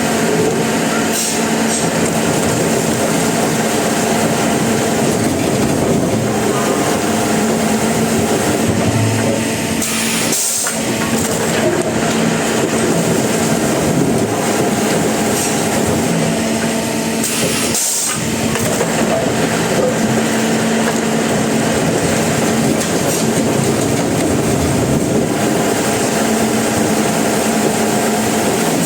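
Sawmill machinery running steadily, a loud continuous mechanical noise with a constant hum, briefly dipping twice, about a third of the way in and about two-thirds in.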